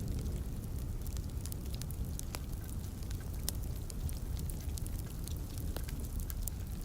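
Wood fire crackling in a fireplace: scattered sharp pops and snaps, a few every second, over a steady low rumble and a faint hiss of rain.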